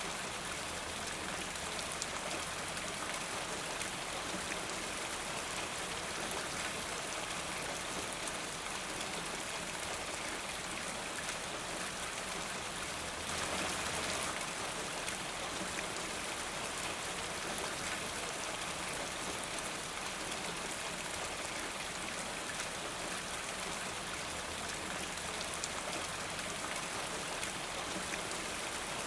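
Steady rain falling, an even hiss of many drops that swells slightly about halfway through.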